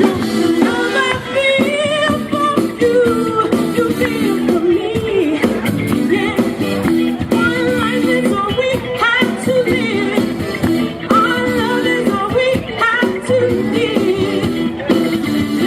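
Live band playing a song, with a male lead singer's voice over the instruments.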